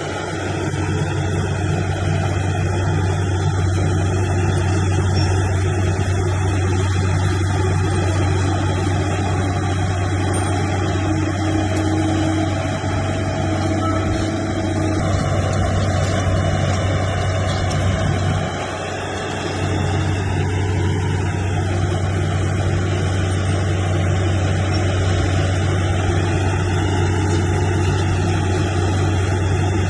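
Bulldozer's heavy diesel engine running steadily under work, with a short dip in engine sound about two-thirds of the way through before it comes back up.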